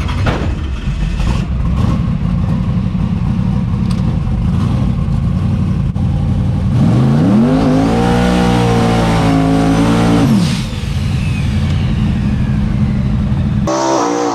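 Drag race car engine rumbling at low revs, then about seven seconds in it revs up, holds high for about three seconds and drops back. Near the end another engine sound cuts in abruptly.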